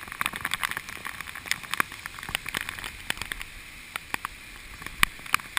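Raindrops striking a GoPro Hero2 camera's housing: irregular sharp taps and ticks over a faint steady hiss of rain.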